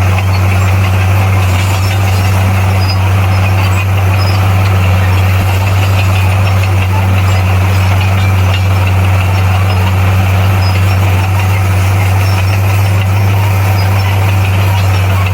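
Bulldozer's diesel engine running steadily, a constant low drone that holds one pitch throughout.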